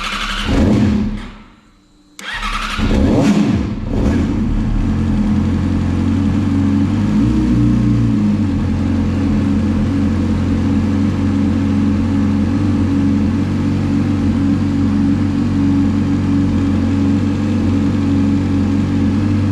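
Yamaha YZF-R6 inline-four engine being started: a first burst of cranking stops about two seconds in, a second try catches, and from about four seconds in the engine settles into a steady idle with a brief rise in revs a few seconds later. The hesitant start is the hard starting that the owner complains of.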